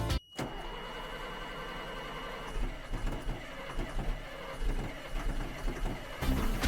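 1994 M1078 army truck's diesel being started: a steady mechanical whir with a thin high whine, joined about two and a half seconds in by an uneven low rumble.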